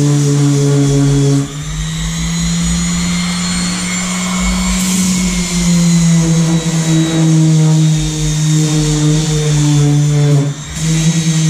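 Electric power sander running on the boat, a steady motor hum that shifts in pitch a couple of times, with a brief dip near the end.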